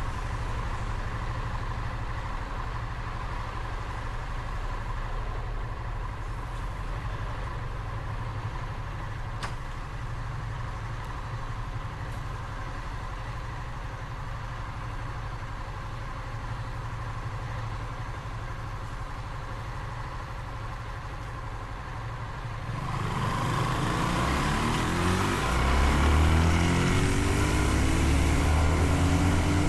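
Motorcycle engine running steadily at low revs. About three quarters of the way through it accelerates: the pitch rises and a rush of noise builds.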